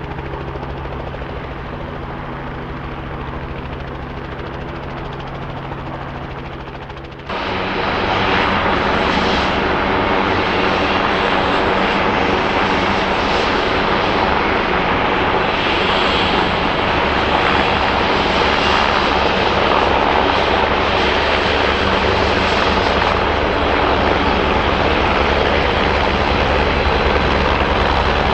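Helicopter running with a steady low hum for about seven seconds, then a sudden step to much louder, close helicopter rotor and engine noise with a thin high whine, steady to the end.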